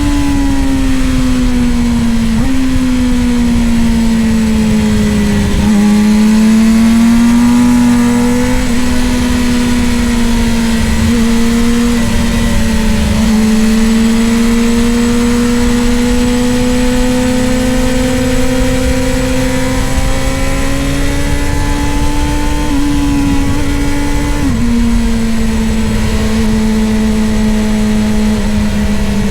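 Middleweight superbike racing motorcycle engine at high revs, its pitch easing down and climbing back with the throttle and stepping abruptly at a few gear changes, over a steady rush of wind noise.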